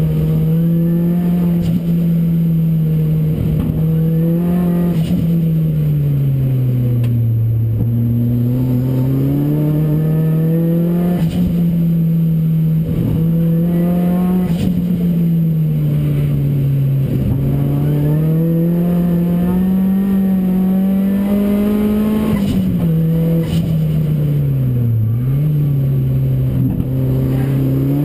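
Ford Racing Puma's modified Focus RS engine, heard from on board being driven hard on track. The revs climb and fall repeatedly, with sudden drops in pitch at gear changes and slower dips where it eases off.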